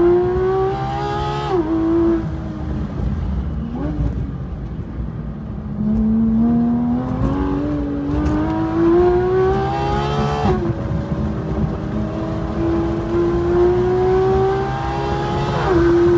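Porsche 911 GT3 RS flat-six engine driven hard on track. It revs up and shifts up about a second and a half in, then eases off with a short rev blip for a downshift around four seconds in. From about six seconds in it pulls hard again, rising in pitch, with quick upshifts about ten and fifteen and a half seconds in.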